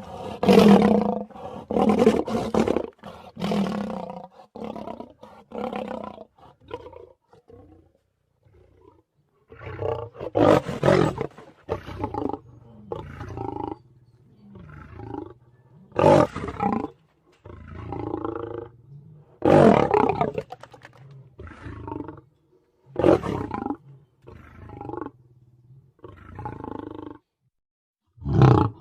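Creature roar and growl sound effects: a string of short roars, one after another with brief pauses between them.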